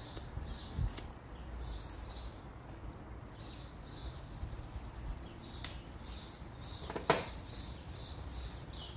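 A bird chirping repeatedly in quick short calls, two to three a second, while a pipe lighter clicks twice; the second click, about seven seconds in, is the loudest sound.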